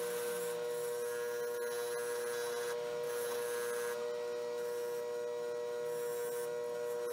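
A motor-driven fiber polishing wheel runs with a steady humming whine, and the metal butt end of a Schrade Walden knife is pressed against it several times, giving short rubbing, hissing passes as it is polished.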